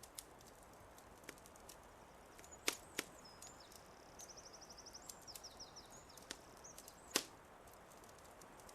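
Wood fire crackling with a few sharp pops, the loudest near the end. Over it a small songbird sings high, thin chirps with a quick trill in the middle.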